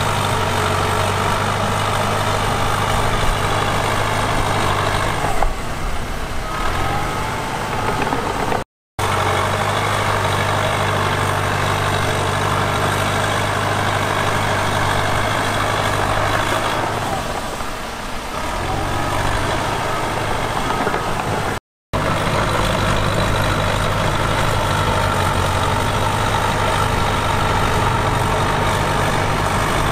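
Diesel engine of heavy earthmoving equipment running steadily. The note falls away briefly twice, and the sound cuts out for an instant twice.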